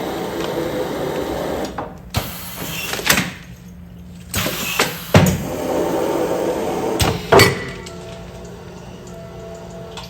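Commercial container-sealing machine running a continuous sealing cycle: sharp clacks a couple of seconds apart over a steady hum, with stretches of hissing between them.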